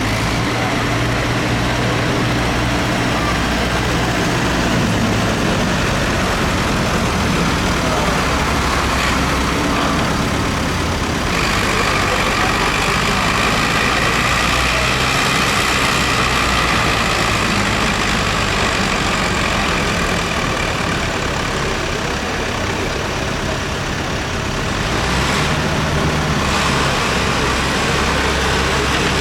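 Tractor engines running steadily. A higher steady whine joins about a third of the way in and fades out near the end.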